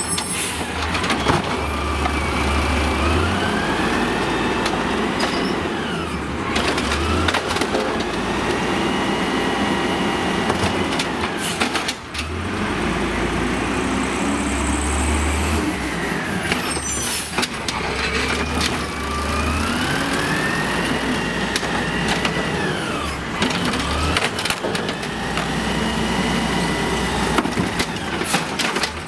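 Amrep automated side-loader garbage truck emptying carts twice. With each lift the engine speeds up, a hydraulic whine rises, holds and falls as the arm swings up and back down, and sharp metal knocks come as the cart is shaken out and set down.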